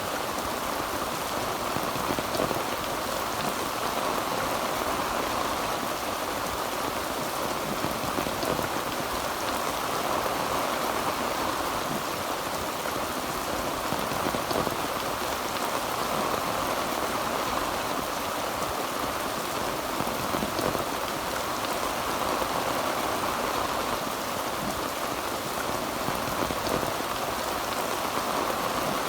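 Heavy rain falling steadily on a tin roof: an even, unbroken rush of drops with no thunder.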